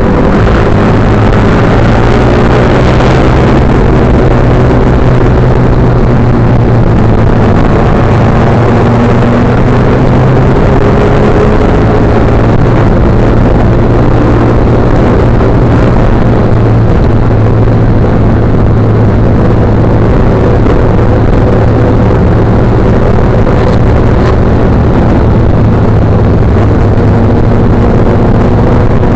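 Motorcycle engine running at a steady, even pace, with a constant hum and little change in pitch.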